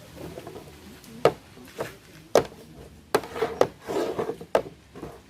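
Cups knocked and slid about on a table top as they are shuffled. There are about six sharp knocks, with scraping between them.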